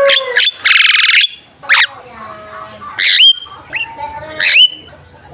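Javan myna (jalak kebo) singing loudly. A harsh rasping burst comes about a second in, followed by several sharp whistles that sweep down in pitch and settle on a short held note, with clicks and chatter between them.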